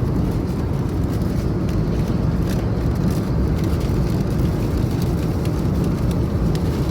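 Steady engine and airflow noise inside the cabin of an Airbus A320neo in flight, a deep even rush with no change.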